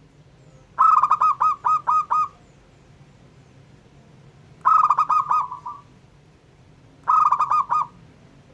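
Zebra dove (perkutut) cooing in three bursts of fast, repeated notes, the first and longest about a second in, the others near the middle and near the end.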